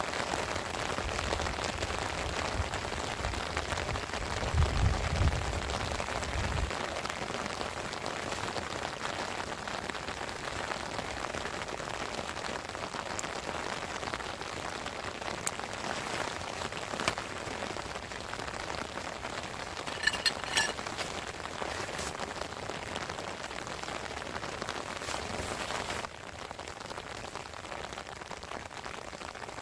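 Steady heavy rain falling and pattering on a surface. A low rumble swells about four to six seconds in, a few sharp clicks sound about two-thirds of the way through, and the rain abruptly drops quieter near the end.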